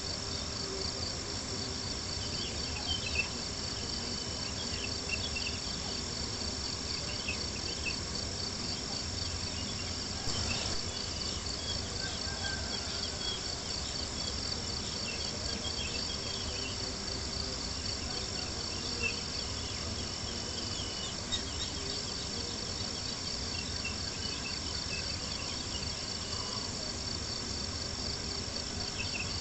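Steady chorus of crickets chirping, over a campfire crackling with a few sharper pops.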